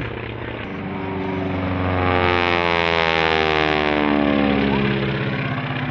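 A radial-engined propeller airplane flying past: the popping of the radial engine's cylinders and the higher, quicker sound of the propeller. It grows louder toward the middle, and its pitch falls steadily as it passes.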